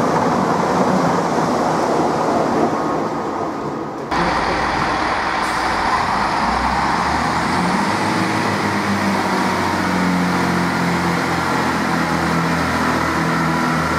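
A diesel multiple unit passing at speed with a dense rush of wheel and engine noise. About four seconds in, this gives way abruptly to another diesel multiple unit moving slowly, its underfloor diesel engines droning steadily at a low pitch.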